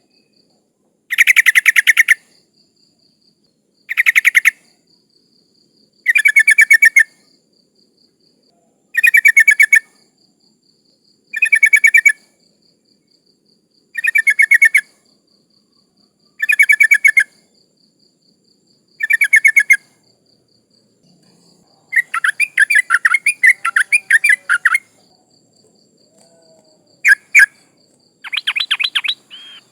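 Yellow-vented bulbul (trucukan) calling over and over, a loud bubbling phrase of rapid notes about every two and a half seconds, then a longer three-second phrase and two short ones near the end. The recording is billed as a female in breeding condition calling to males. A faint steady insect trill runs underneath.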